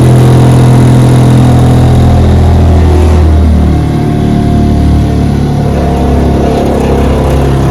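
1960 West Bend 2 hp model 2901 two-stroke outboard running steadily at open throttle while pushing a small boat. About three and a half seconds in it eases slightly lower in pitch and loudness.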